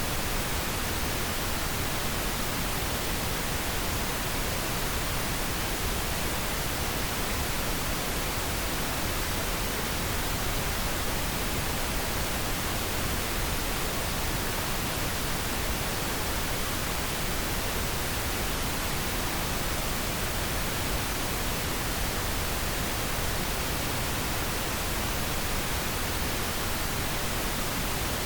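Steady pink noise: an even, unchanging hiss spread across the whole range from low rumble to high hiss.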